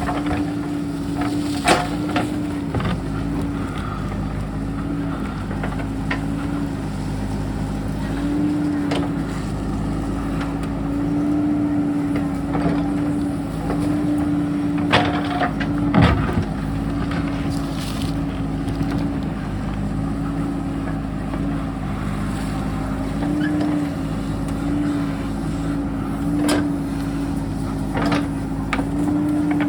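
JCB backhoe's diesel engine running steadily, its pitch lifting briefly again and again as the hydraulics take load, with occasional sharp knocks.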